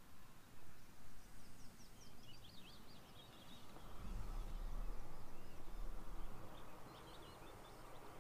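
Small birds singing in quick, rising and falling twitters, in two spells about two seconds apart, over steady outdoor background noise. A low wind rumble on the microphone swells from about four seconds in.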